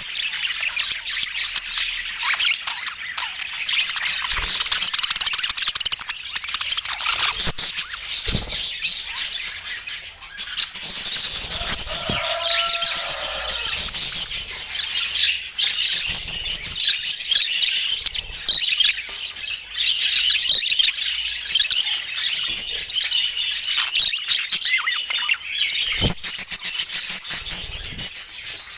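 Budgerigars chattering and warbling without a break, many high chirps overlapping, with one short lower call about twelve seconds in.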